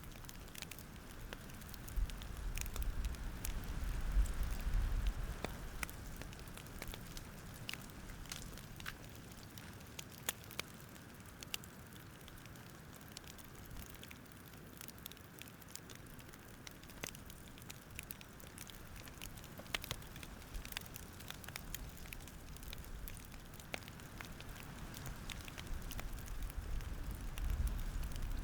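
Campfire crackling, with irregular sharp pops and snaps over a soft hiss. A low rumble swells a couple of seconds in and again near the end.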